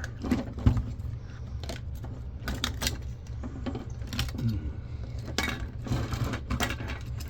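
Small plastic and metal parts of an old camcorder clicking and clattering as it is taken apart by hand, in irregular light knocks, over a steady low hum.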